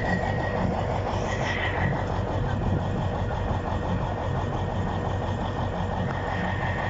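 Diesel engine of a Kirovets K-700 tractor idling steadily, with a thin high whine that drops out early on and comes back near the end.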